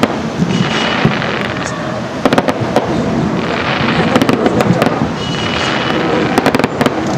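Fireworks display going off without a break: a steady rumble of bursts with rapid clusters of crackling pops, thickest about two and a half and six and a half seconds in.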